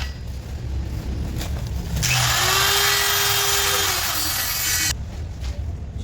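A power tool runs in a metal workshop, a loud hissing, grinding noise with a steady hum beneath it, from about two seconds in until it cuts off suddenly about three seconds later. A low machine rumble runs under it the whole time.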